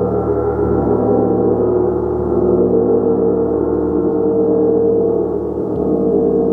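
Large gong played continuously, a dense wash of many overlapping sustained tones that swells and shimmers, strongest in the middle register, with no single sharp strike standing out.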